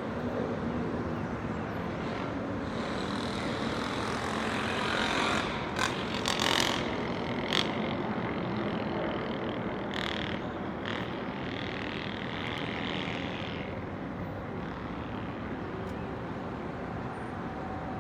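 City traffic noise: a steady rumble of road vehicles, with one vehicle passing louder a few seconds in and a few sharp short sounds near its peak.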